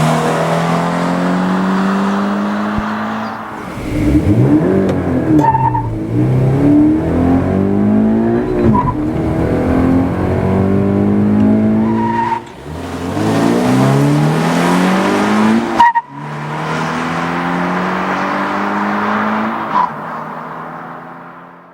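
Toyota GT86's 2.0-litre flat-four engine pulling hard, its note climbing in pitch in long sweeps and cutting briefly at the upshifts of its manual gearbox. The engine fades out at the end.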